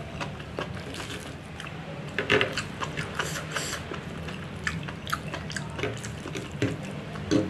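Close-up eating sounds: wet chewing of a soft enoki mushroom and egg omelette, mixed with irregular small clicks of a fork and spoon against the tray. A low steady hum runs underneath.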